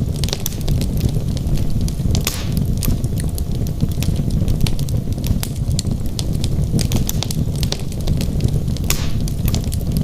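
Wood logs burning in a fireplace: a steady low rumble of flames under frequent sharp, irregular crackles and pops, with a couple of brief hissing flare-ups.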